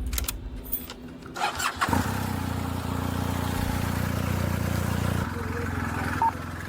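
Police motorcycle engine starting about two seconds in, then running steadily at idle.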